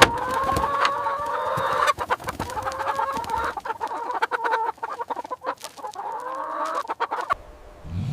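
Chickens clucking and calling in drawn-out notes, with many short clicks among the calls, which stop about seven seconds in.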